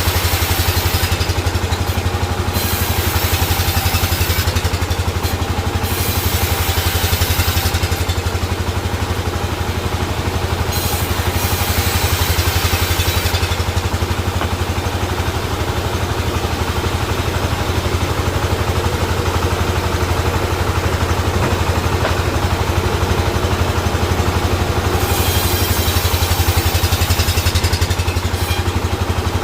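A sawmill's engine running steadily with a fast, even beat, and hiss in the high range that comes and goes several times.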